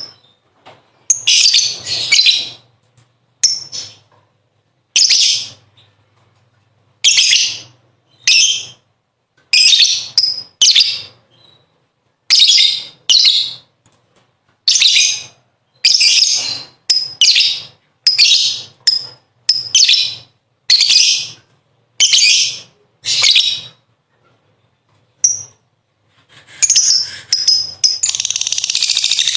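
Lovebird giving a run of short, harsh, high-pitched chattering bursts, about one a second. Near the end it breaks into one continuous long chatter, the lovebird's long 'ngekek' trill.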